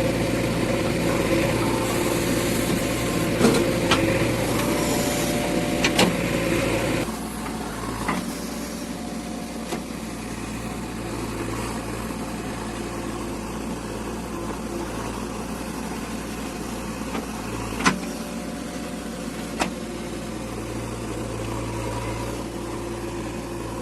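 JCB 3DX backhoe loader's diesel engine running, louder for about the first seven seconds and then settling to a quieter steady run, with several sharp metallic clanks scattered through.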